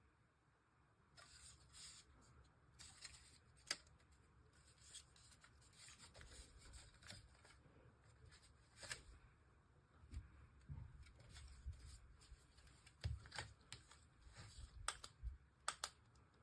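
Faint handling noises: scattered light clicks and rustles, with a few soft low knocks in the second half.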